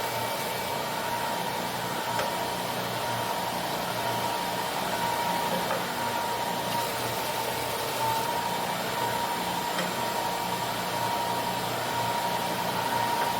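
Electric belt sander running steadily with a constant whine, sanding the edge of glued-up fence boards flush.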